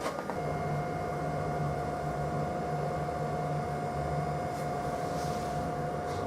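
Steady electrical hum with a single high whine that sets in just after the start, over a faint even hiss, typical of the charging and metering equipment of a wind-generator battery and heater setup.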